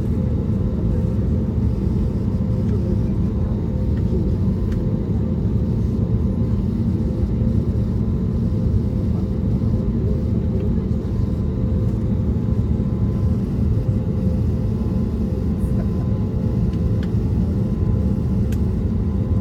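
Steady cabin noise inside an Airbus A320neo airliner with its CFM LEAP-1A26 engines running: an even low rumble with faint steady humming tones over it.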